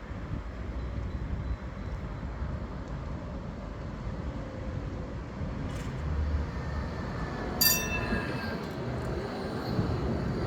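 Škoda 52T ForCity Alpha tram running on its rails, a steady rumble with a sharp metallic clang about three-quarters through that rings on briefly, then a faint wheel squeal near the end.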